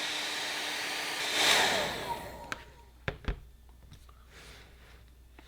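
Electric hot-air blower heating the plastic edges, running steadily with a motor hum, then briefly louder and switched off about two seconds in, its motor winding down with falling pitch. A few sharp knocks follow.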